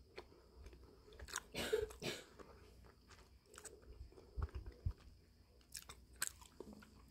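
Close-up chewing of a bite of yakgwa, a crisp deep-fried Korean honey cookie: a run of small crunches, loudest about two seconds in.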